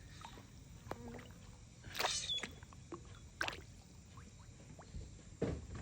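Water sloshing and lapping, with a few short splashes.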